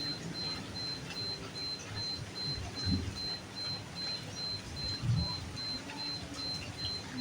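Steady night rain falling, with scattered drops tapping on surfaces. A high, thin tone pulses about three or four times a second, and low rumbles swell briefly twice.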